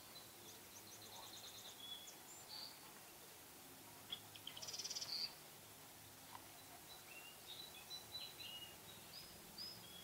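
Faint high bird chirps and short calls over a quiet background, with a quick rapid series of chirps a little before the middle and scattered short calls later on.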